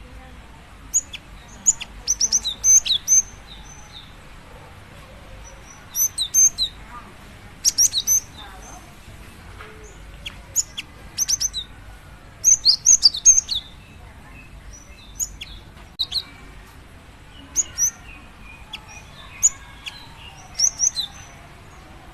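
Female cinereous tit (gelatik batu) giving short, sharp, high-pitched calls in quick clusters every second or two, the call a female uses to draw in a male. Fainter, lower twittering runs underneath.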